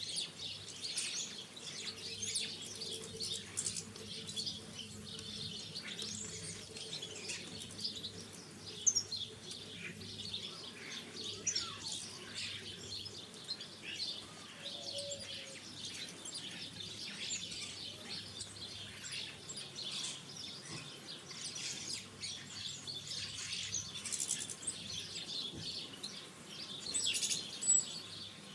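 Small garden birds at a feeder, a dense, continuous chatter of overlapping high chirps and twitters.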